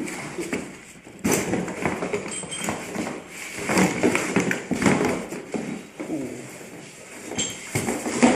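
A trunk bike rack being unboxed and handled: irregular knocks, clicks and rattles as its parts are moved about, in clusters with short lulls between.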